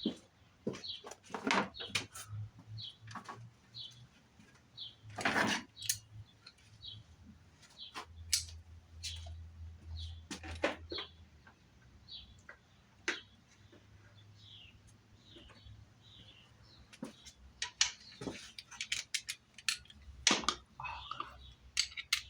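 Irregular clicks and knocks of hand tools and parts being handled while working on the car, coming thicker near the end. Short high chirps recur in the background.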